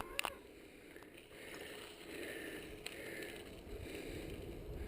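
Faint outdoor background noise, with a few light clicks near the start.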